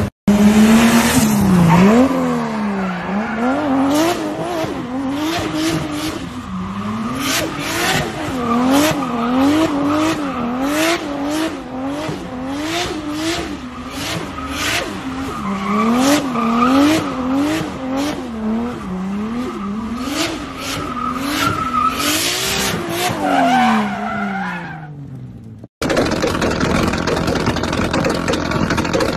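Toyota Supra straight-six revving up and down over and over, about once a second, with tyres squealing as the car does a smoky burnout and donuts; the revs fall away near the end.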